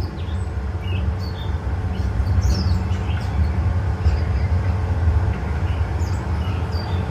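Steady low rumble of an amusement-park ride train running along its track, heard from on board. Short high bird chirps sound over it several times.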